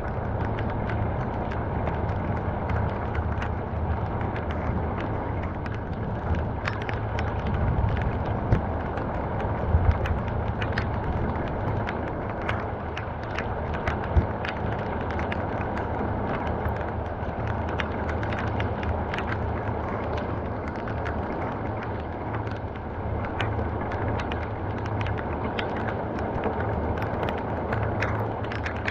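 Steady rain storm, an even wash of rainfall with many scattered sharp taps of drops striking nearby surfaces over a low rumble.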